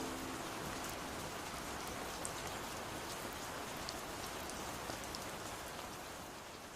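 Steady rain falling, with scattered individual drops ticking sharply against the hiss; it fades out near the end.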